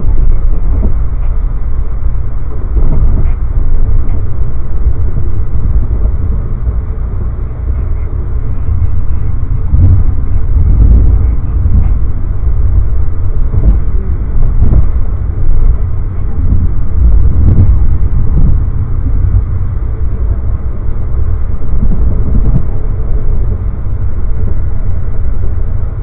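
Amtrak passenger train running at speed, heard from inside the coach: a loud, steady low rumble of wheels on rail, with occasional knocks and jolts.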